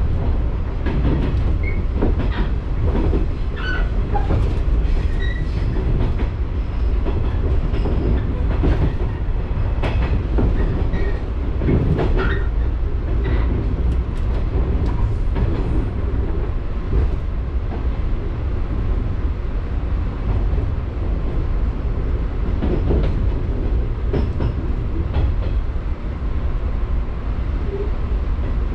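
Local electric train running on the rails, heard from inside the carriage: a steady low rumble with frequent sharp clicks of the wheels over rail joints and points. The clicks thin out after about the middle.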